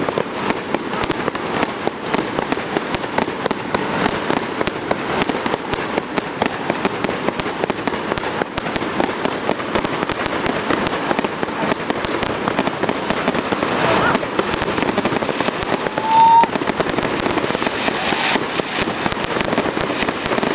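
Fireworks display: a dense, continuous stream of bangs and crackles. About sixteen seconds in there is a brief whistling tone, the loudest moment.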